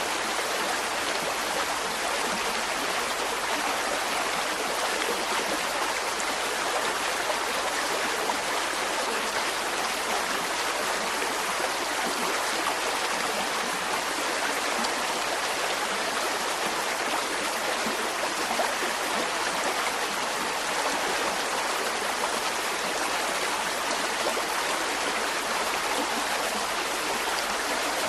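Mountain stream: water rushing and splashing over rocks in a steady, unbroken flow.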